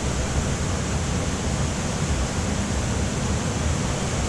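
Mountain stream water rushing steadily: a constant, even wash of flowing water.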